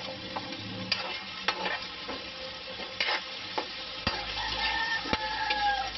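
Diced bell pepper, onion and garlic frying in hot oil in a wok, sizzling steadily, with sharp knocks and scrapes of a utensil against the wok and cutting board as the pepper is scraped in and stirred. A short squeak sounds about four seconds in.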